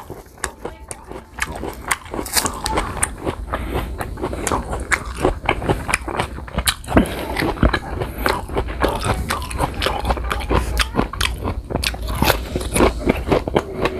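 Close-up crunching and chewing of raw green guava slices: a dense, uneven run of crisp bites and crunches.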